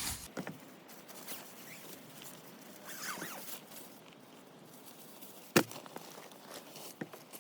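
Faint rustling and handling sounds, with a single sharp click about five and a half seconds in.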